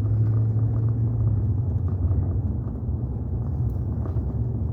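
Steady low rumble of a vehicle driving along a road, engine and road noise heard from inside the cab, easing slightly about halfway through.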